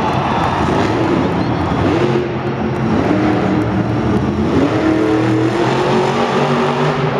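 Monster truck's supercharged V8 engine running and revving, its pitch rising and falling.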